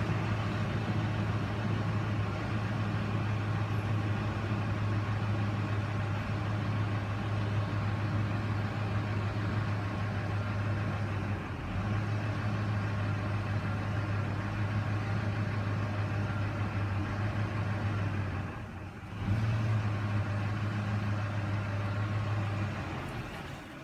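2005 Ford F-150's 5.4 Triton V8 idling roughly. It sags about halfway through, nearly stalls a few seconds before the end, catches again, then dies near the end. The stalling was traced to a corroded fuel pump driver module shorting out.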